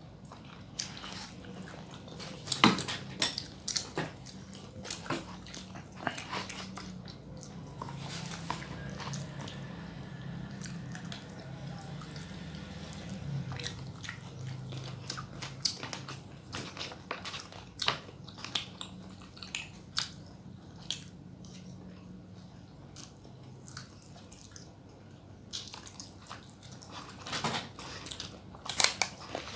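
Close-miked eating: biting and chewing, with crunches and sharp wet mouth clicks at irregular intervals.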